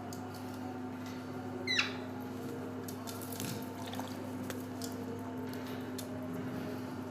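A pet green parrot gives one short, falling squawk about two seconds in. Under it runs a steady low hum with a few faint clicks.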